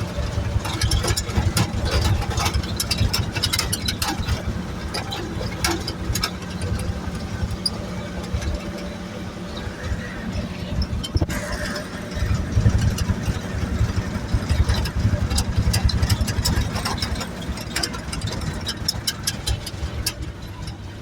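1963 Chevrolet dump truck being driven, its engine running steadily, with frequent sharp rattles and knocks throughout.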